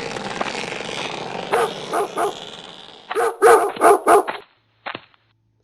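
Dogs barking: three short barks, then four louder ones in quick succession, over a hiss that fades away. A single click comes near the end.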